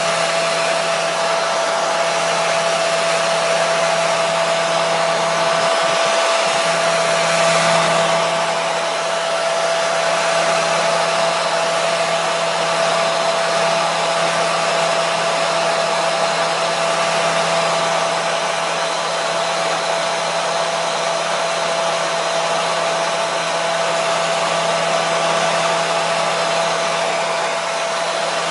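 Hair dryer running steadily: a constant rush of air with a steady motor whine and hum.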